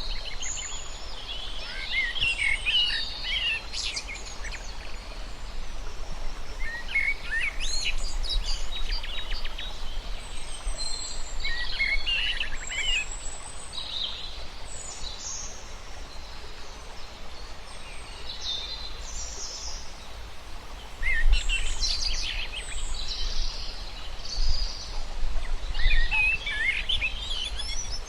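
Several birds singing and chirping in short phrases every few seconds over a steady low background rumble.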